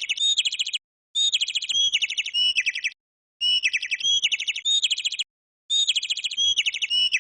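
A bird chirping in four near-identical, fast phrases of high chirps, each about two seconds long, with brief silences between them.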